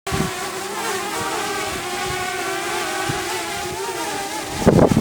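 DJI quadcopter hovering, its motors and propellers whining with a pitch that wavers as they work to hold position in strong wind. A loud gust of wind hits the microphone near the end.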